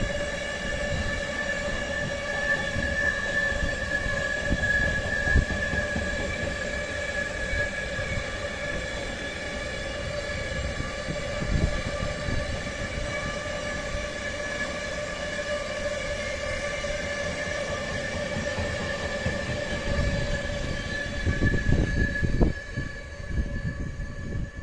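Freight train hauled by Siemens Vectron electric locomotive X4EC-037 rolling past: a low rumble of wagons with irregular knocks, under a steady high-pitched squeal that fades out near the end.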